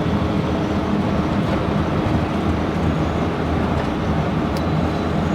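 Tuk-tuk engine running steadily under way, with road and wind noise, heard from the passenger seat.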